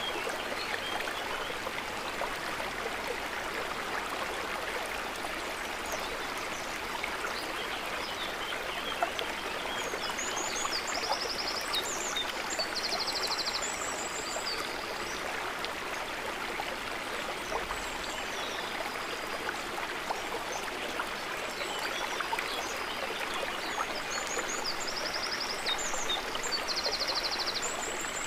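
Water trickling and babbling in a steady flow. Short, high, quick chirping trills come in a few times around the middle and again near the end.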